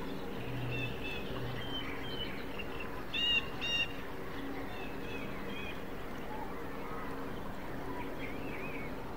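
Small birds chirping outdoors: scattered short calls, with two louder double chirps about three and a half seconds in, over a steady low hum.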